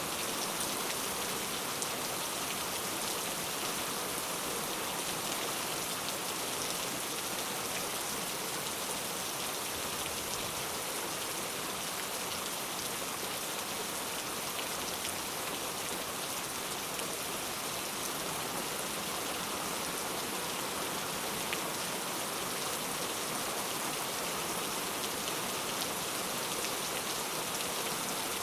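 Heavy rain falling steadily, a dense even hiss of drops with fine patter.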